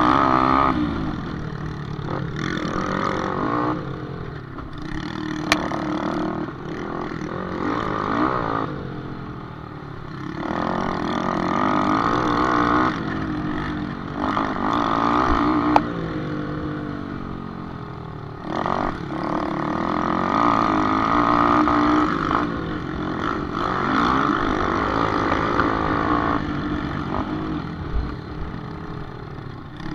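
Small motocross motorcycles revving hard and easing off in repeated surges, the engine note rising and falling every few seconds. Two sharp clicks stand out, about five seconds in and just before the midpoint.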